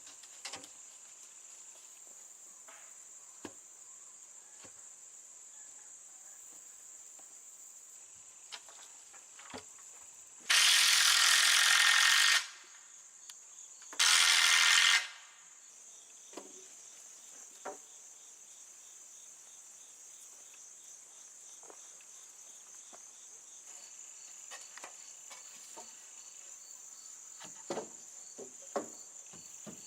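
Crickets trilling steadily in a high, continuous chorus. About ten seconds in, it is broken twice by a loud, sudden hiss, first lasting about two seconds and then about one second, with a few small clicks scattered through.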